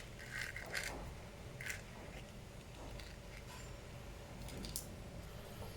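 Faint small clicks and scrapes of a screwdriver and screws as a ThinkPad Yoga S1 laptop is screwed back together, a few in the first second, one near two seconds in and a couple near the end, over a low steady hum.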